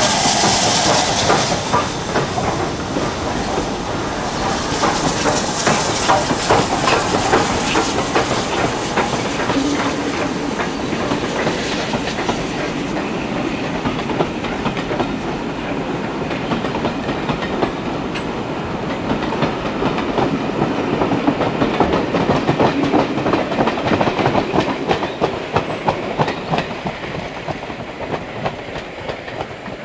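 Steam-hauled train running past, its wheels clattering rapidly over the rail joints, with bursts of steam hiss in the first few seconds. The sound fades away near the end.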